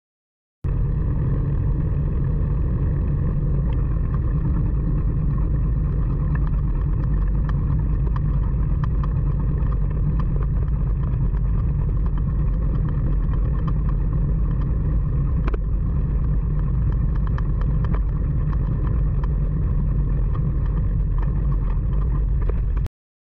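Heavy wind buffeting on the microphone of a phone carried on a moving bicycle: a steady, loud low rumble, with many small clicks and rattles from the bike over the road. It starts and stops abruptly.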